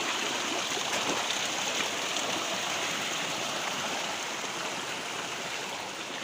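Running water of a stream, a steady rushing wash that eases off slightly toward the end.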